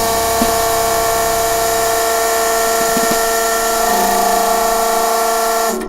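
A small electric motor runs with a steady whine, its pitch holding level. It cuts off suddenly near the end.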